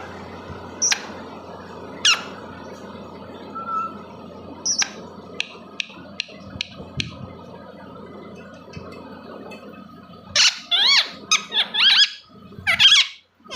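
Pet parrot calling: a few short, sharp high chirps and clicks, then a quick run of loud squawks with sliding pitch near the end.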